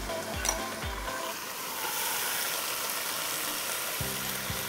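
Yogurt-and-onion masala sizzling in a wok, with background music; a small click about half a second in.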